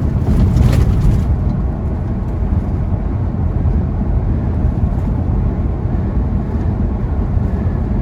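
Semi truck's diesel engine and road noise droning steadily inside the cab at highway speed, with a brief hiss in the first second or so.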